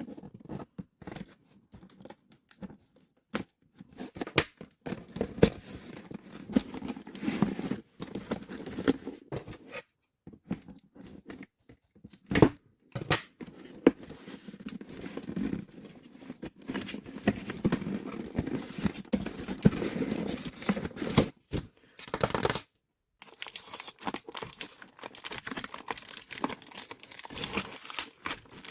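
Plastic packaging crinkling and tearing as it is handled close to the microphone, broken by a few sharp clicks.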